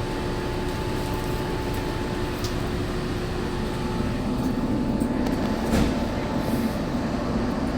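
Steady hum and whir of a Walt Disney World monorail car standing at a station with its doors open, before departure. A lower hum joins about four seconds in.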